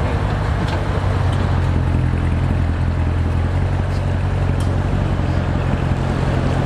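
Chevrolet C7 Corvette Z51's 6.2-litre V8 idling steadily with a deep, even exhaust rumble.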